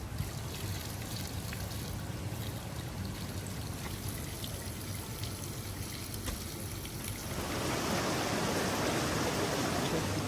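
Running water trickling steadily, growing louder and fuller about seven and a half seconds in.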